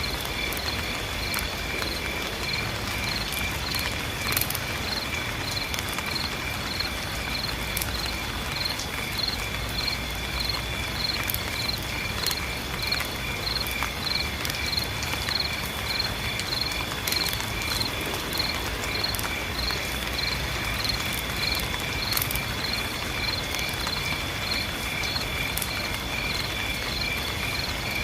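Crickets calling: a steady high trill with a pulsing chirp about three times a second, over a light hiss and patter of rain.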